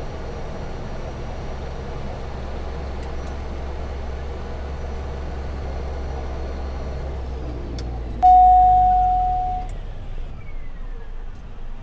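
Cessna Caravan's PT6A turboprop running steadily in the cockpit, then starting to wind down with falling whines about seven seconds in. About eight seconds in, a loud single beep tone sounds and fades over about a second and a half.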